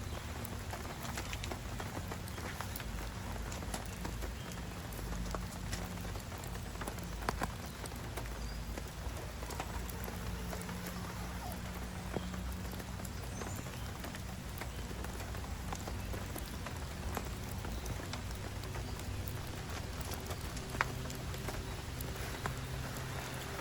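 Steady rain falling, with many irregular drops tapping on a surface and a couple of sharper knocks.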